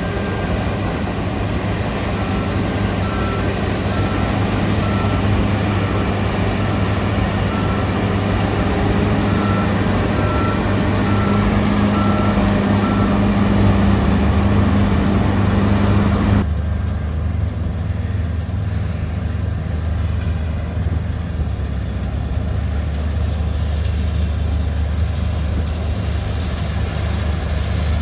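Large diesel farm machinery running steadily under harvest work, with a faint repeated beep through the first half. About two-thirds of the way through, the high-pitched whirring drops away sharply and a deeper engine hum carries on.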